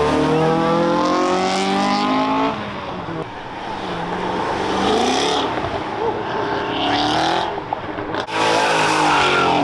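Cars accelerating hard away, one after another. Each engine revs up with a climbing pitch: one at the start, another about halfway through, and a third near the end.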